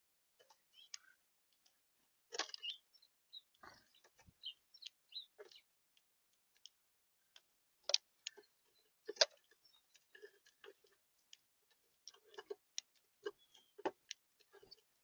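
Faint, irregular clicks and taps of animals feeding at a bird feeder, pecking and cracking seed, with a few short high chirps in the first half.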